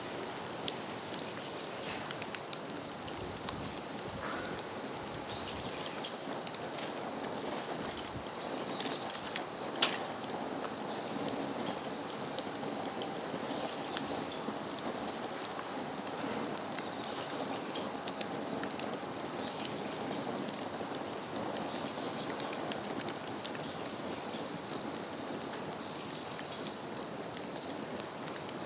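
Bamboo bonfire crackling steadily, with a sharp snap about ten seconds in. A thin high whistle runs through most of it, wavering and breaking up midway.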